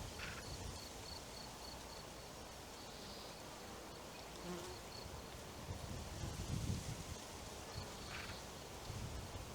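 Quiet forest ambience. A faint high-pitched call repeats about three times a second through the first half and again near the end. Low rumbles of wind on the microphone swell about two-thirds of the way through.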